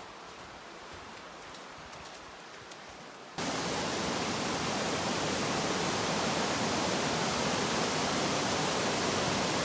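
Waterfall rushing: steady, loud noise of falling water that cuts in suddenly about a third of the way in, after a few seconds of faint hiss.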